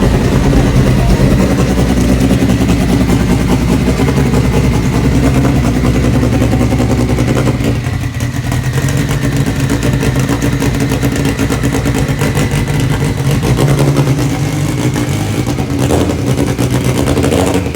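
Loud motor vehicle engine running close by, its pitch shifting a little as the throttle changes.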